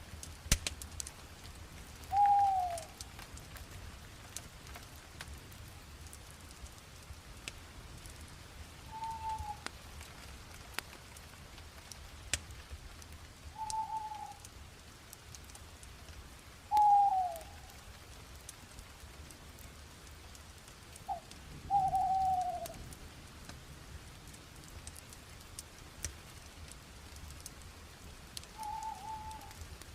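Fire crackling with scattered sharp pops, while a bird calls six times at intervals of several seconds. Each call is a short single note, some level and some falling in pitch.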